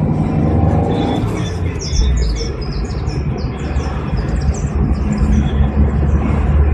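Chevrolet Monza's engine running with a steady low rumble, its camshaft, rockers and hydraulic lifters freshly replaced. Birds chirp in a quick run of high calls from about a second and a half in until past the middle.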